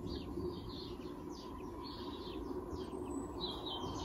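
Small birds chirping: a scattered run of short, falling calls over steady background noise.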